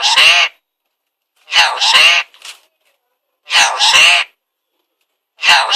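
Pet parrot repeating a short, loud two-part utterance four times, about every two seconds.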